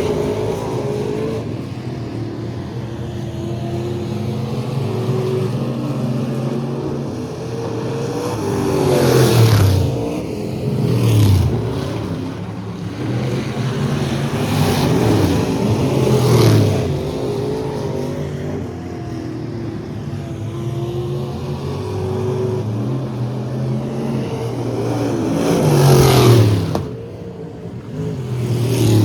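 Several race trucks' engines running hard around the track. Pass-bys swell and drop in pitch as trucks go by, loudest about nine, sixteen and twenty-six seconds in.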